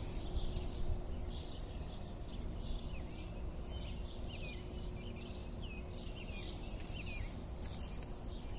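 Birds chirping: a steady run of short, high chirps, many with a quick downward slur, over a low steady background rumble.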